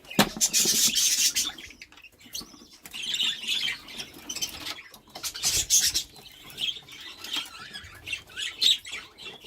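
Budgerigars chirping and chattering, broken by several short bursts of rustling.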